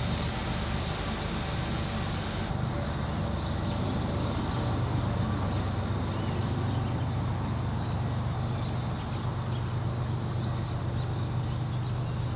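Steady low rumble of a passing freight train mixed with highway traffic.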